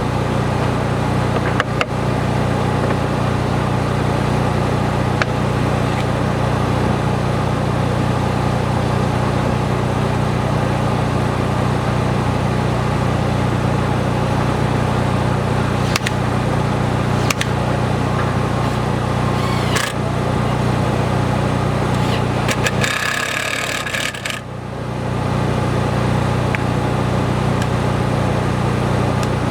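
Construction machinery engine running steadily with a low drone, with a few sharp metallic knocks. Shortly before the end the drone briefly dips while a higher hissing sound comes through.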